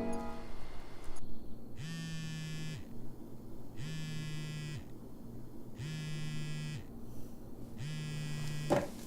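Mobile phone on vibrate buzzing with an incoming call: four buzzes about a second long, two seconds apart.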